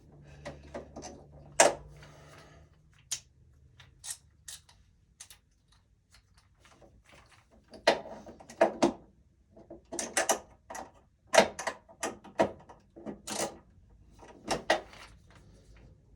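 Irregular clicks and knocks of hand tools and small metal hardware being handled and worked, a dozen or more sharp taps, busiest in the second half.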